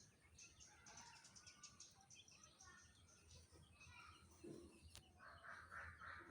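Faint chirping of small birds: many short, high calls in quick succession.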